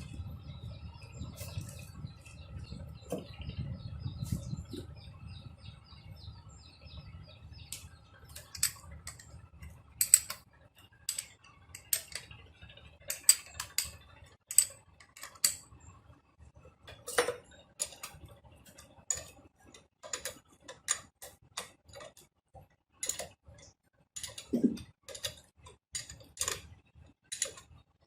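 Metal parts and hand tools clicking and tapping in an irregular series of sharp ticks, after a low steady hum in the first several seconds.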